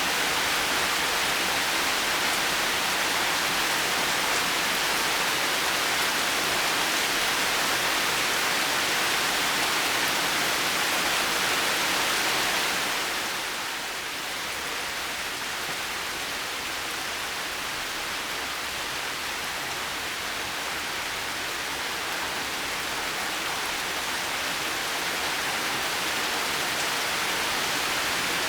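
Heavy rain falling, an even dense hiss. About halfway through it eases a little, then slowly builds back up.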